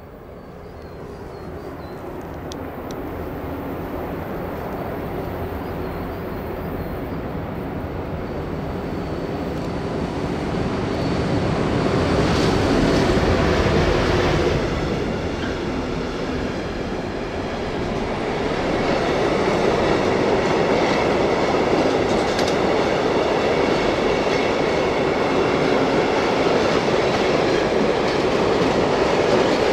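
A train approaching and running past on the rails: a rumble that grows steadily louder, peaks about twelve seconds in, eases briefly, then holds as a loud, steady run of wheels on the track.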